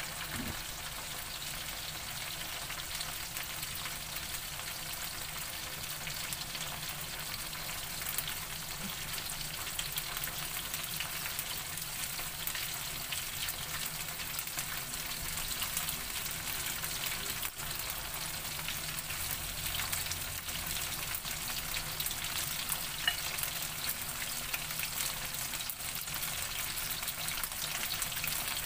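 Flour-coated chicken intestines deep-frying in hot oil over medium heat: a steady, dense sizzle of fine crackles as the coating dries out toward crisp.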